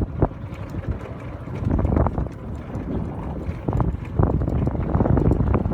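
Wind buffeting the microphone in an uneven low rumble, with scattered short knocks; it grows stronger about four seconds in.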